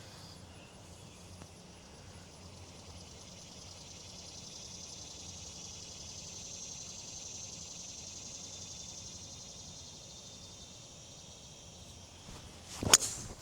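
Insects keep up a steady high-pitched chorus that swells and fades in the middle. Near the end comes one sharp strike of a 3-wood hitting a golf ball.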